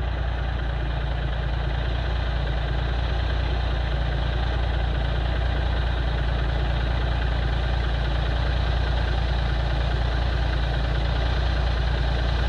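Caterpillar 3406B inline-six diesel in a 1984 Peterbilt idling steadily, shortly after a cold start at about 20 degrees.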